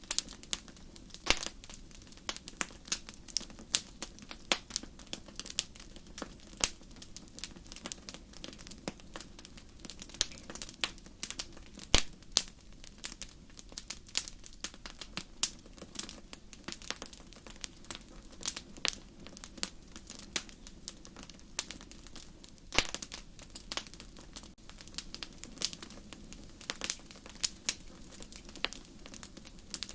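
Wood fire burning in a fireplace, crackling with irregular sharp pops several times a second over a steady low background. The loudest pop comes about twelve seconds in.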